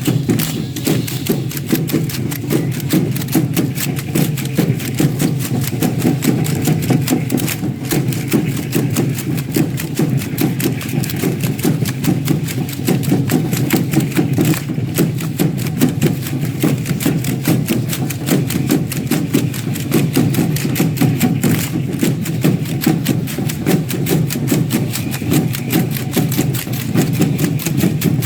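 Music for a matachines dance: a steady drumbeat driving a dense, fast rhythm of clicks and rattling, likely the dancers' rattles and steps.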